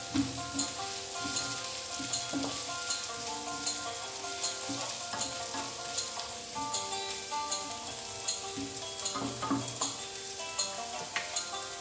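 Sliced onion, garlic and ginger sizzling in hot olive oil in a frying pan, stirred now and then with a wooden spatula.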